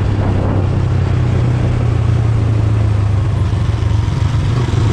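Motorcycle engine running steadily under way, heard from on board the bike, with wind and road noise over it.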